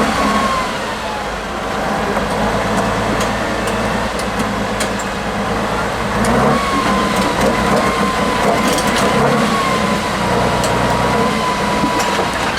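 Heavy diesel engine of an off-road trial truck running under load, with a thin whine that wavers slightly in pitch.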